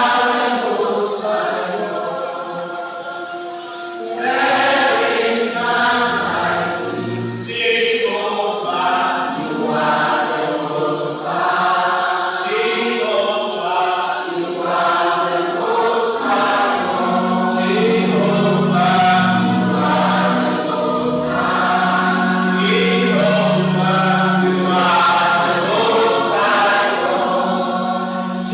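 A choir of many voices singing a gospel worship song together.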